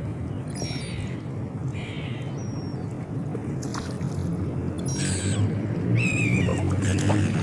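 Seagulls calling: a run of short, high, slightly falling cries, coming closer together and a little louder in the second half, over a steady low rumble.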